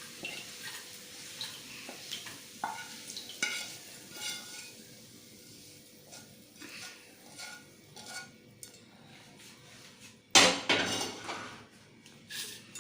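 A metal spoon scraping and clinking in a pan of egg fry while the sizzle dies away with the stove off. There are scattered short clinks, then a louder clatter of about a second roughly ten seconds in.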